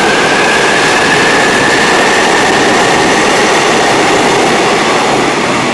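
Seoul Metropolitan Rapid Transit 7000-series electric subway train pulling away from the station: loud, steady running noise with a whine that slowly rises in pitch as it gathers speed.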